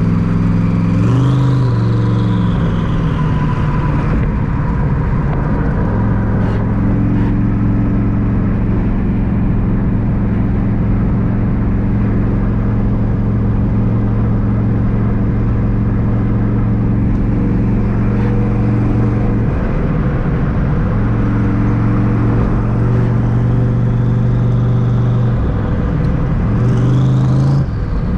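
Twin-turbo Terminator Mustang Cobra's 4.6-litre DOHC V8 running loud while the car is driven, mostly at a steady engine speed. The engine pitch steps up about a second in, holds for a long stretch, shifts a few times in the last third, and starts to rise right at the end.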